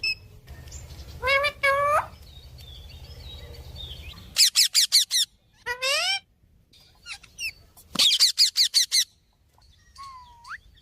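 Pet parrot calling: two pitched calls, then quick runs of sharp, repeated notes that fall in pitch, and a single rising whistle near the end. A low steady hum runs under the first few seconds.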